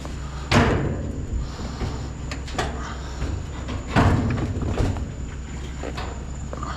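Scrap metal being handled and loaded: two loud knocks about three and a half seconds apart, with lighter knocks between, over a steady low hum.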